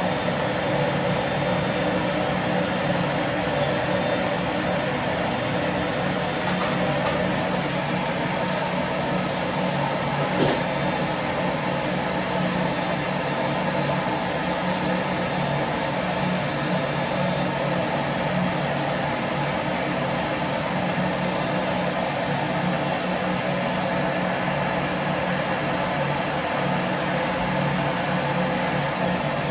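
Vacuum cleaner running steadily: a constant motor hum over an even hiss, with one brief click about ten seconds in.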